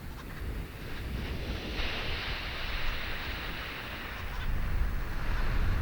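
Wind rushing and gusting. A hissing swell comes about two seconds in, and a deep rumble builds toward the end.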